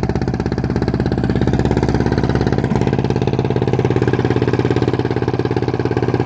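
Old stationary engine driving a tubewell pump, running steadily with an even, rapid chugging beat.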